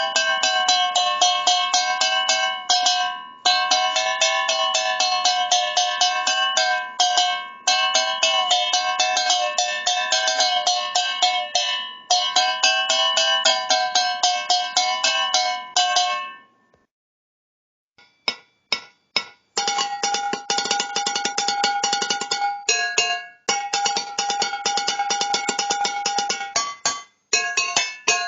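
Metal cans struck rapidly in a fast, even rhythm, each hit ringing with clear pitches; the main pitch wavers up and down in the first half. The playing stops about 17 s in, comes back as a few separate hits, then turns into fast strikes again at a slightly higher main pitch.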